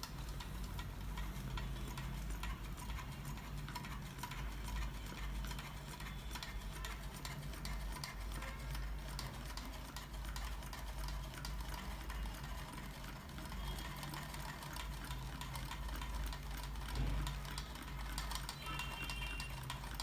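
Homemade Stirling engine running, its crankshaft and linkage making a steady run of fast ticks.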